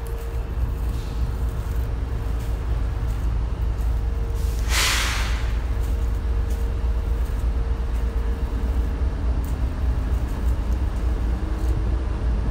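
Freight train of autorack cars rolling past: a steady low rumble of wheels on rail, with a faint steady hum and a brief hiss about five seconds in.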